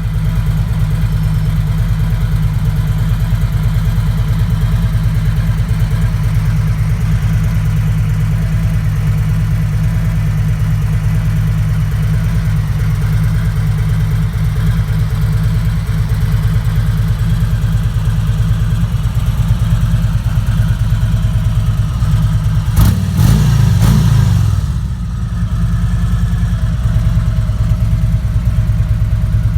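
Harley-Davidson Freewheeler trike's V-twin engine idling steadily, with one short rev about three quarters of the way through that rises and drops back to idle.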